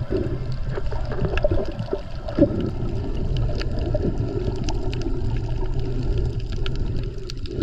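Sea water around a camera held underwater while snorkeling: a steady muffled rumble with scattered small clicks and bubbling.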